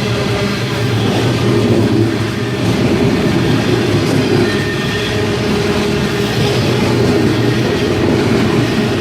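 Loaded coal train passing through the station at close range: a steady, loud rumble and clatter of wagon wheels on the rails.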